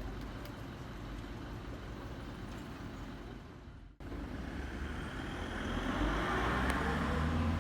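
Street traffic: a steady hum of road vehicles. It cuts off abruptly about four seconds in, then comes back and swells louder toward the end as a vehicle passes by.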